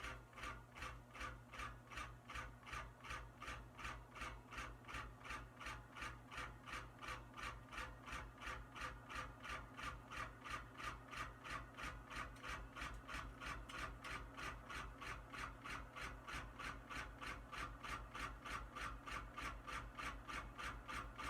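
Canarm 48-inch industrial ceiling fan running and straining, with a rhythmic scrape at about three strokes a second over a steady motor hum. The scrape comes from a previously frozen motor that rubs as it turns.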